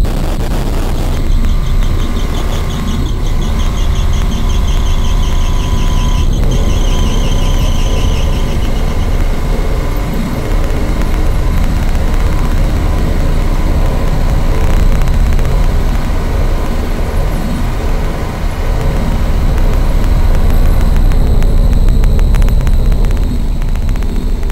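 Loud urban traffic noise: a dense low rumble of vehicles, with a high pulsing tone over it for the first several seconds.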